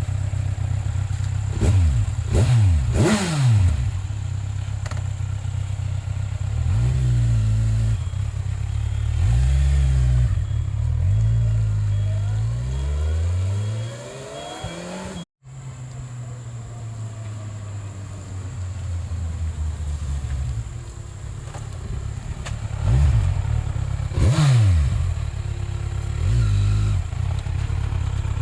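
Kawasaki Ninja 1000 inline-four motorcycle engine running, with a few quick throttle blips that sweep the pitch up and back down about two to four seconds in and again near 24 seconds. Between about 9 and 14 seconds in there are longer rises and falls in pitch. The sound cuts out for an instant about 15 seconds in.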